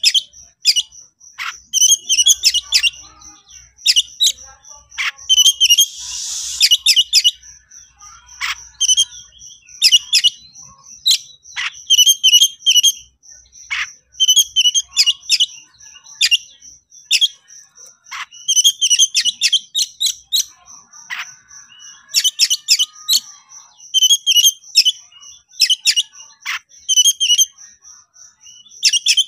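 Oriental magpie-robin (kacer) singing in the rapid, varied 'konslet' style: short bursts of high whistles and chirps, repeated every second or so.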